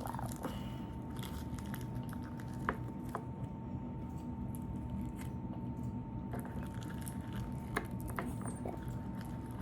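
Crunchy slime being squished and kneaded by hand, with a few small crackles and clicks over a steady background hum.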